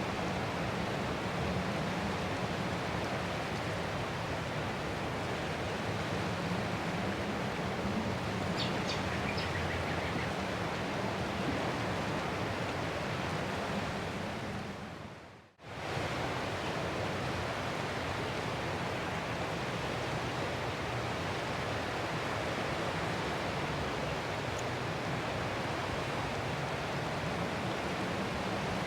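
Continuous rush of ocean surf, a steady hiss-like wash of water noise. About halfway through it fades out to near silence for a moment and comes straight back.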